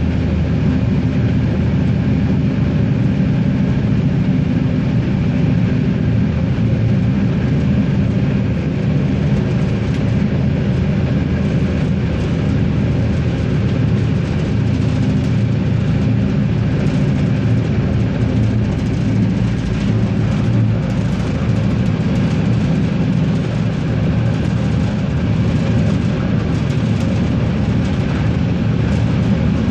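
Regiosprinter diesel railcar under way: its diesel engine drones steadily, mixed with the rumble of wheels on the track.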